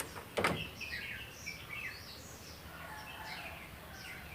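A single sharp click about half a second in, then small birds chirping in the background, with short rising and falling notes repeated throughout.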